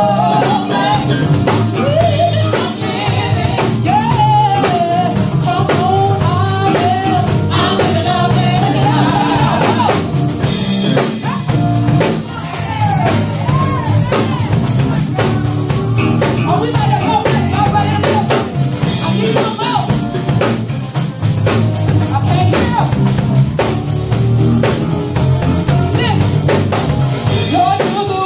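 A woman singing a gospel song in a melismatic style, with band accompaniment in which the drum kit and bass are prominent.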